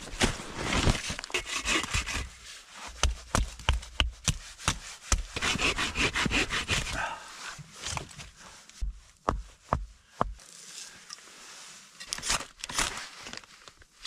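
Handling noises: many sharp clicks and taps with rustling between them.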